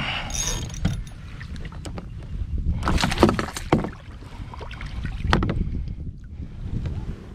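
Handling sounds on a fishing kayak: scattered knocks and rustles with a steady low rumble, the knocks thickest about three seconds in and again a couple of seconds later.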